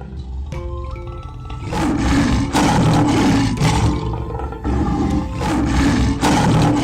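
Short xylophone-like jingle, then from about two seconds in a lion roaring again and again in long, loud roars.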